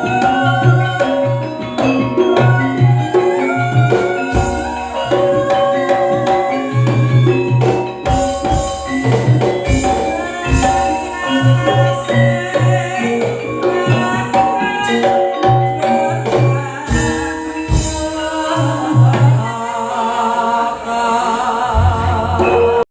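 Javanese campursari music: a gamelan-style ensemble with ringing mallet-struck metal notes over a steady, rhythmic drum beat.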